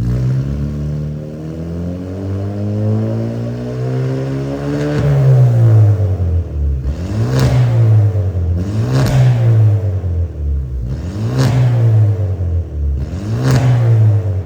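Kia Stinger engine revved through an aftermarket large-tip "cannon" exhaust: the revs climb slowly for about five seconds, then four short, sharp blips of the throttle that rise and fall back.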